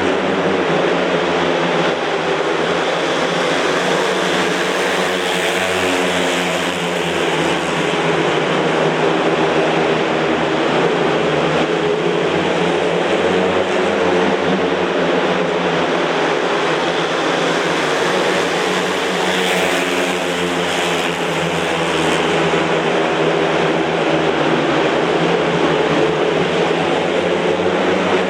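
Speedway motorcycles racing, their single-cylinder 500 cc methanol engines running hard, with the pitch rising and falling as they go round.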